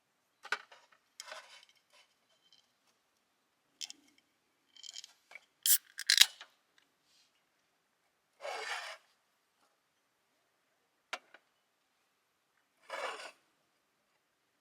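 Objects being handled: a scattered series of short scrapes, rubs and sharp clicks with pauses between them. The loudest is a pair of sharp scrapes about six seconds in, and a longer scrape follows a few seconds later.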